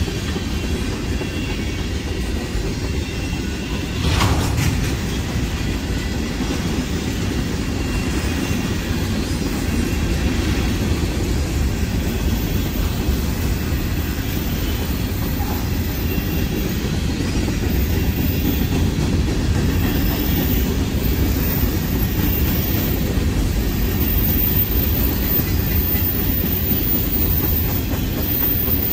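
Freight train cars (tank cars, covered hoppers and boxcars) rolling past at steady speed, their wheels running over the rails with a continuous low noise. A single sharp clank about four seconds in.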